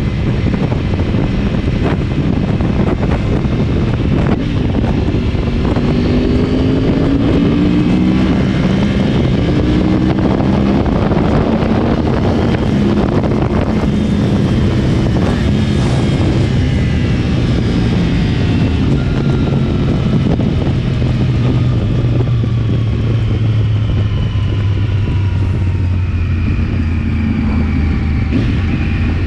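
2010 Yamaha R1's crossplane inline-four, decatted and breathing through an Akrapovic exhaust, under way on the road. The revs climb in steps through several gear changes, then fall steadily for a long stretch as the bike slows, and pick up again near the end.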